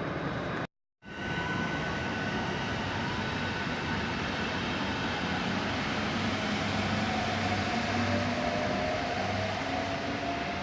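Electric train running along the track, with a steady rumble and faint motor whines; one whine slowly rises in pitch in the second half. The sound cuts out completely for a moment about a second in.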